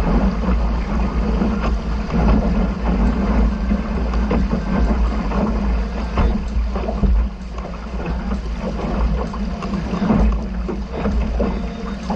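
Wind rumbling on the microphone over water noise aboard a small sailboat under way.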